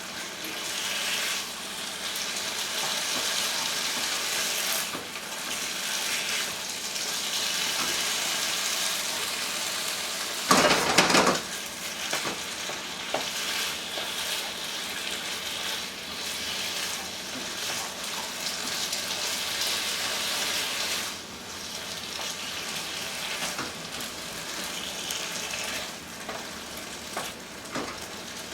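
Sliced chicken frying and sizzling in a hot pan, stirred now and then with a utensil. About ten seconds in there is a louder noise lasting about a second.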